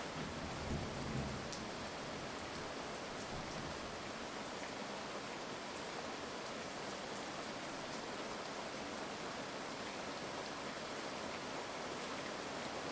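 Steady heavy rain hissing, with scattered drop ticks. A low rumble of thunder dies away in the first second or so.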